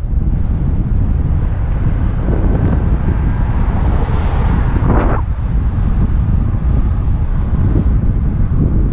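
Wind buffeting a helmet-mounted action camera's microphone while cycling, a steady low rumble. A higher rushing noise swells over a few seconds and drops away sharply about five seconds in.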